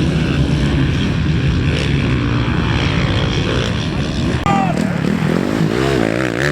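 Motocross dirt bike engines running hard. About four and a half seconds in, one engine's revs start rising and falling quickly and repeatedly.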